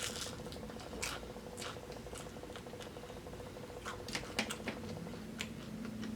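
Quiet eating sounds: irregular small clicks and smacks from chewing and handling food, a little busier about four seconds in, over a steady low hum.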